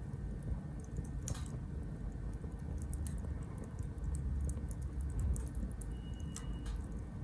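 Small wood fire in a compact B6 grill, crackling with scattered sharp pops over a steady low rumble of the flames.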